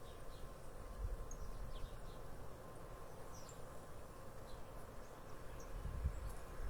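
Nature ambience: scattered short, high bird chirps over a steady faint insect-like drone, with a low rumble underneath.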